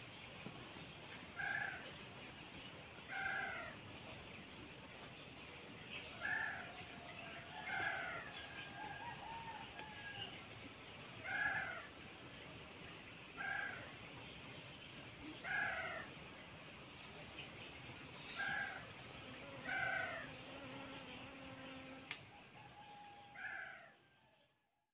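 A bird repeating a short downslurred call about once every two seconds, over a steady high-pitched drone of insects. The sound fades out near the end.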